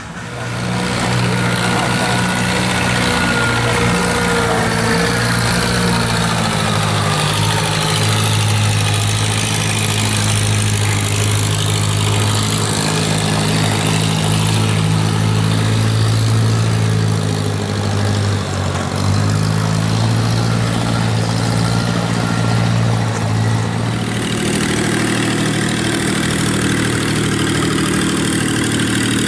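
Long-tail boat engine running steadily. It grows loud about half a second in, and its pitch shifts slightly a couple of times.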